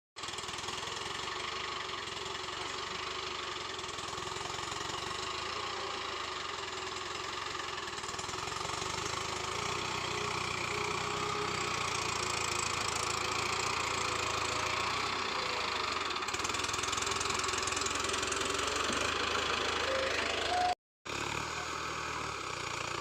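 Diesel tractor engine running steadily, a Mahindra Arjun 605 hauling a sugarcane load. The sound cuts out briefly near the end.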